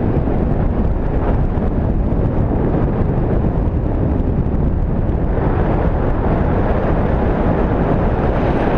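Wind buffeting the microphone in flight: a loud, steady rush of airflow.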